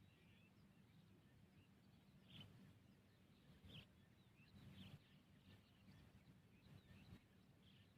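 Very faint outdoor evening ambience: scattered short, high chirps from small animals over a low hum, with a few soft knocks.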